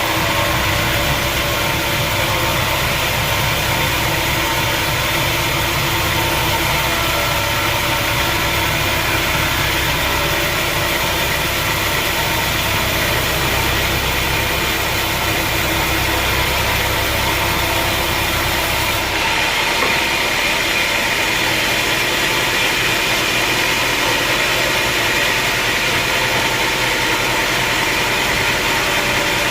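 Sawmill machinery running steadily with a mechanical hum and whine. Its sound changes abruptly about two-thirds of the way through, losing much of its low rumble.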